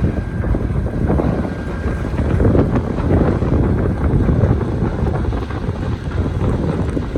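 Strong wind buffeting the microphone: a loud, uneven low rumble that swells around the middle and eases again.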